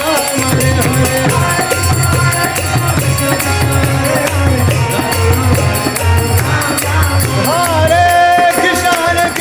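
Kirtan music: a voice singing a melodic line that holds a long note near the end, over a steady beat of low drum strokes and jingling hand percussion.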